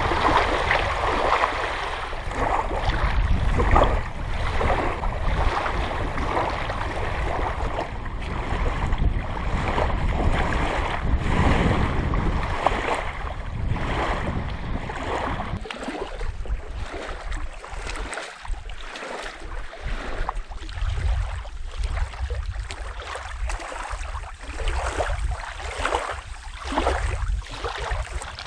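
Water splashing and lapping, with wind rumbling on the microphone. The wind rumble eases about halfway through, leaving the splashes plainer.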